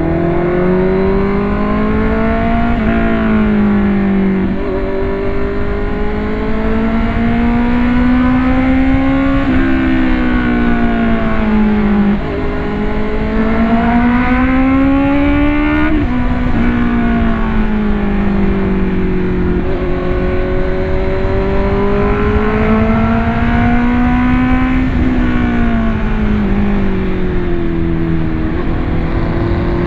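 Vehicle engine running on the move, its pitch climbing over a few seconds and then dropping back, again and again, over a steady low rumble.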